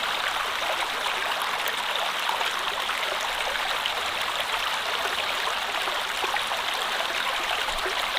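Stream water running steadily, an even rushing with fine splashes throughout.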